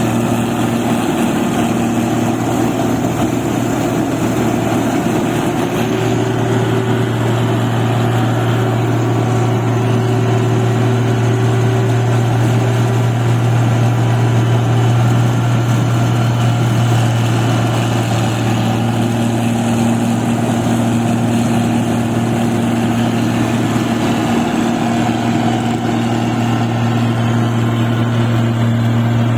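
Engine of a rice paddy machine running steadily: a constant low hum with a few steady higher tones over it.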